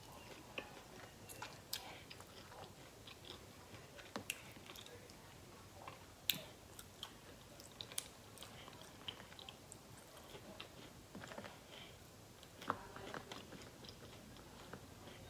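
Close-miked chewing and biting of fried food: soft wet mouth sounds with scattered crisp clicks. The sharpest click comes about six seconds in.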